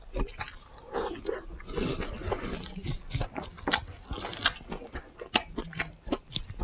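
A person chewing a mouthful of kimchi fried rice close to the microphone: many small crunches and wet mouth clicks.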